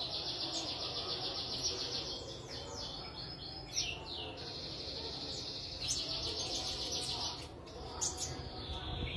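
A sunbird singing: long, fast, high-pitched trills broken by several quick downward-sweeping notes, the song of a newly acquired bird that has just started to sing.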